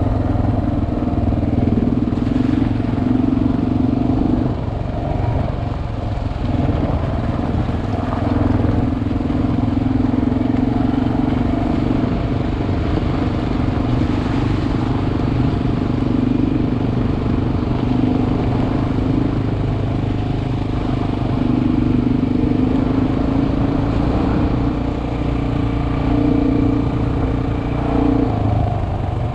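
Single-cylinder four-stroke dual-sport motorcycle engine running while riding, heard close from the rider's helmet. The engine note holds fairly steady but falls away briefly a few times as the throttle is eased off and picked back up.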